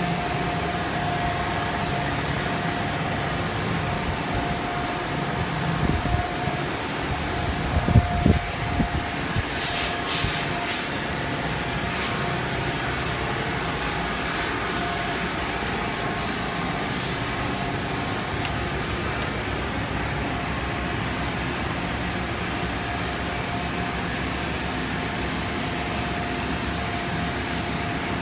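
Spray gun hissing steadily as it sprays epoxy coating onto a wooden dhow hull, over a steady hum. There are a few louder knocks about eight seconds in. The high hiss drops away briefly about two-thirds of the way through.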